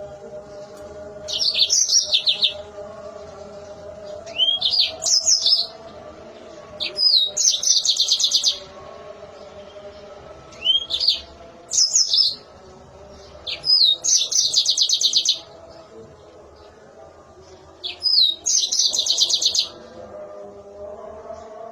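Yellow-fronted canary singing shrill, high-pitched trilled phrases, about seven in a row, each a second or so long with short pauses between them.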